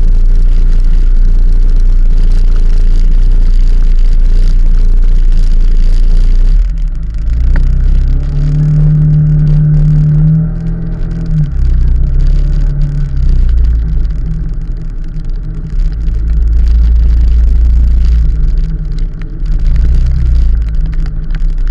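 Heavy low rumble of wind and road noise on the microphone during a vehicle ride. A steady engine note comes through for several seconds in the middle.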